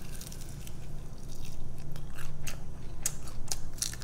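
A person biting and chewing fried chicken wings, with irregular sharp mouth clicks and crunches.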